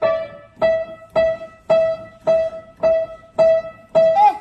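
A keyboard plays the same high note over and over, eight even strikes a little over half a second apart, each fading before the next.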